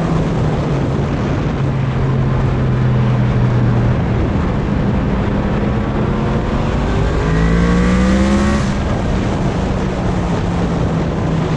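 Yamaha MT-10's inline-four engine running under loud wind noise on the microphone. About seven seconds in the revs climb with a rising pitch for a second and a half, then drop back abruptly.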